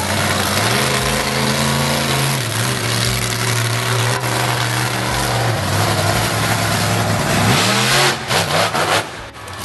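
Monster truck engine running hard under heavy throttle, over a dense noisy roar. Its pitch steps up shortly after the start and holds, drops back about halfway through, then rises again and turns choppy near the end.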